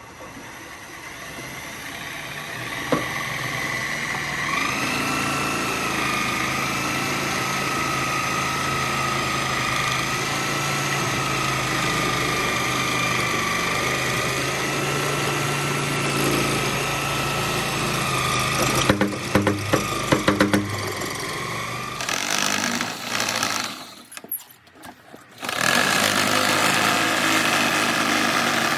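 Power tool motor running steadily while it trims the end of a PVC pipe square, a high whine with some clattering of the cut. It stops briefly about three-quarters of the way in, then starts up again.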